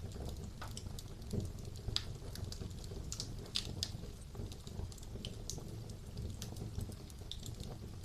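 Wood fire burning in a fireplace, crackling and popping irregularly over a steady low rumble of the flames, with a few sharper pops about a second and a half in and again around three and a half seconds.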